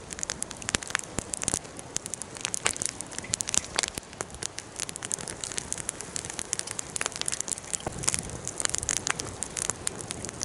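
Wood bonfire burning, crackling with frequent, irregular sharp pops and snaps over a steady hiss.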